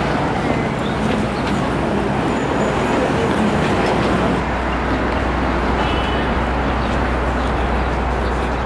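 Steady city street traffic noise with a continuous low engine rumble.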